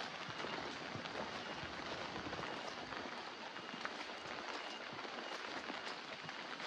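Steady rain falling on wet ground and roofs: an even hiss with scattered small ticks of drops.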